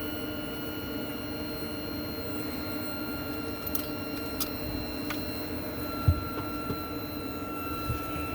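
Abnormal noise from a vehicle's brake system: several thin steady whining tones over a low rumble, one of them dropping slightly in pitch about halfway through. A few light clicks and one sharper knock about six seconds in.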